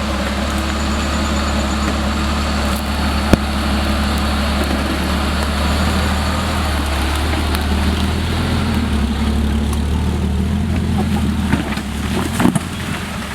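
Off-road 4x4's engine running steadily, with a single sharp knock about three seconds in and a few knocks near the end.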